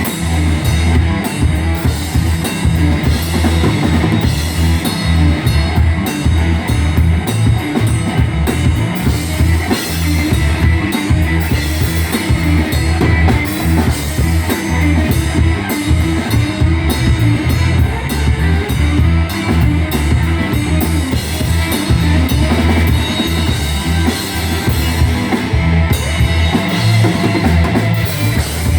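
Live rock band playing an instrumental passage, led by a full drum kit with bass drum, and electric guitar.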